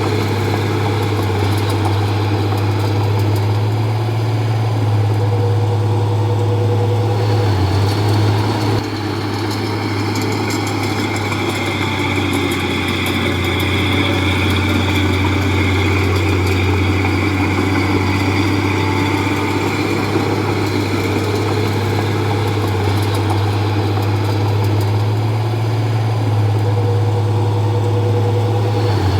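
Diesel engine of a Komatsu D31P bulldozer running steadily, with a brief dip in loudness about nine seconds in and a higher whine over it through the middle.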